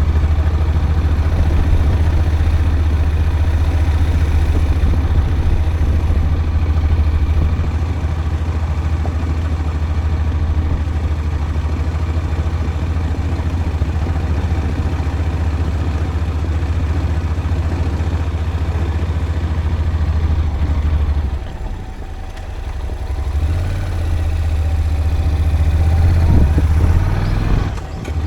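A vehicle's engine running steadily as it travels along. It eases off for a couple of seconds about three quarters of the way through, then picks up again and rises briefly near the end.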